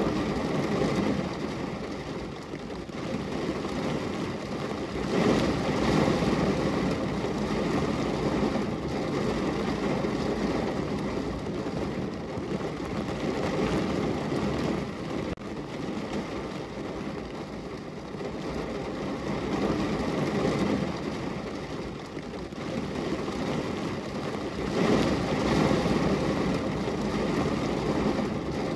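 Steady rain falling against a window, an even rushing hiss that swells louder for a few seconds now and then before easing back.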